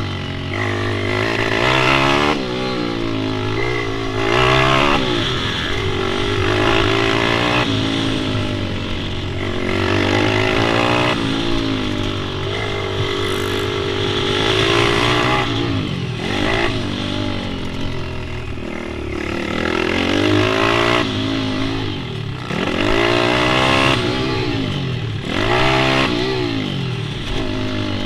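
Pit bike engines running around a track, their pitch rising and falling again and again as the riders open and close the throttle through the corners and straights.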